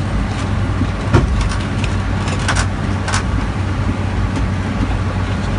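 Diesel engine of a heavy construction machine running steadily, heard from inside the operator's cabin, with a few sharp clicks and knocks, the loudest about a second in.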